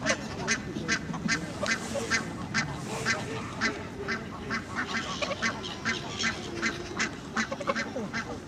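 Ducks quacking in a steady rapid series, about two to three calls a second, over a background of other waterfowl calling.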